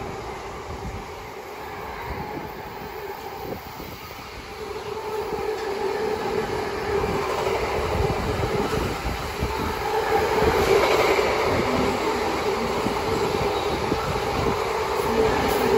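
A train running through the station, its wheels rumbling on the rails, with a steady hum that comes in about four seconds in and grows louder as it nears.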